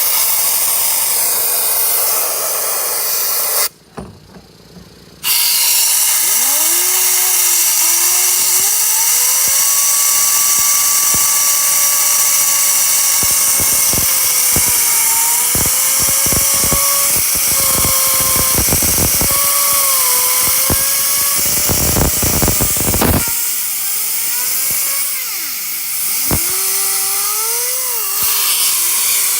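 Compressed air hissing into a Mercedes Sprinter T1N turbocharger, spinning it up with a whine that rises and wavers in pitch. The hiss stops briefly a few seconds in, and a run of clicks and rattles comes in the middle.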